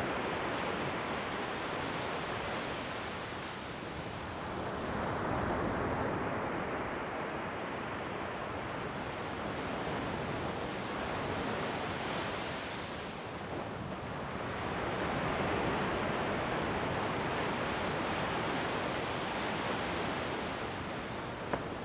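Ocean surf breaking and washing on the shore: a continuous rush of water that swells and eases every five or six seconds.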